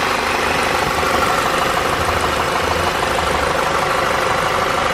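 A Volkswagen GTI's turbocharged 2.0-litre four-cylinder idling steadily at operating temperature, heard from underneath the car close to the engine.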